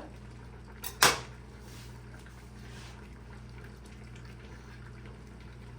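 A single sharp clink of tableware about a second in, over a steady low electrical hum.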